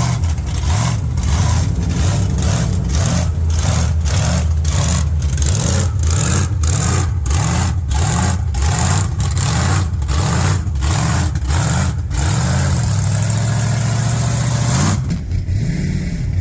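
A vehicle engine revving up and down over and over, roughly twice a second, each rev carrying a rush of noise, as in rocking a stuck vehicle in mud. It then holds a steady pitch for about three seconds before the sound changes abruptly near the end.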